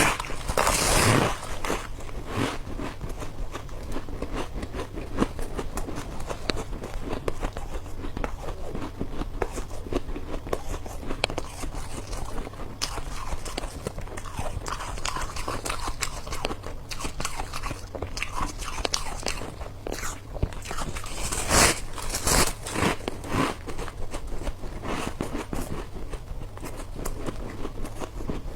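Close-miked biting and crunching of hard ice chunks, with a steady crackle of chewing in between. The loudest bites come right at the start and again about three-quarters of the way through.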